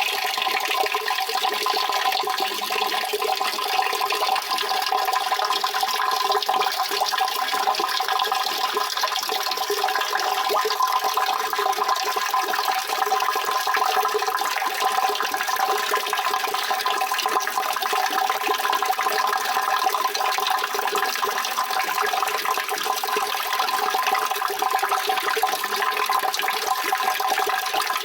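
Water running steadily in a continuous rush with no breaks or changes.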